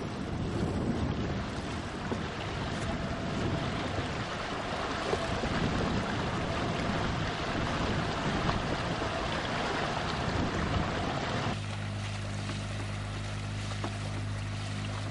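Wind and water noise aboard a sailing boat: a steady hiss of wind on the microphone over waves. About two-thirds of the way through, this gives way to a steady low hum.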